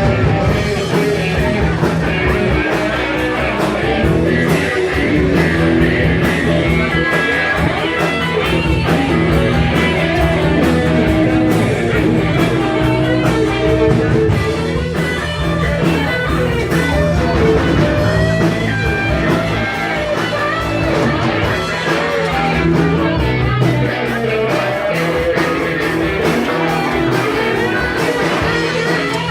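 Live blues-rock band playing an instrumental passage, with guitar to the fore over bass and drums.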